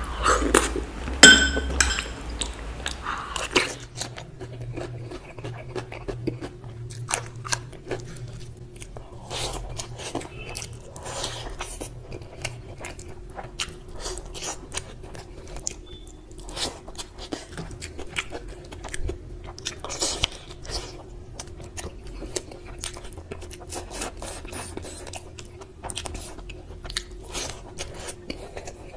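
Close-miked mukbang eating sounds: wet chewing, biting and mouth smacks and clicks over rice and curry, louder in the first few seconds. A low steady hum runs underneath from about four seconds in.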